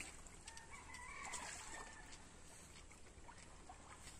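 A faint, distant bird call: one drawn-out, wavering call about a second and a half long, starting about half a second in, over a quiet steady background.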